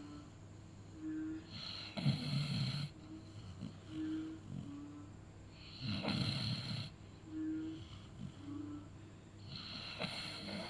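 A beagle snoring: three rattling snores, about one every four seconds, with short whistling notes in the breaths between them.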